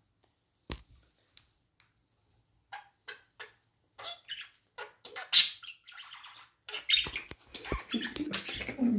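Budgie chirping in short, sparse calls at first, then more often and louder, running into busy chatter near the end.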